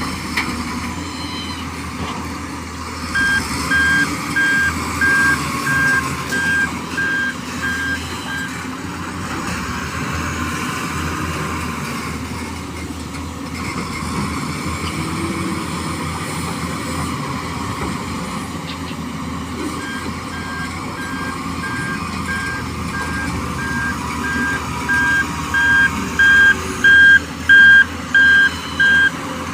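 Truck reversing alarm beeping about twice a second over a running engine, in two spells: one a few seconds in and a longer, louder one in the second half.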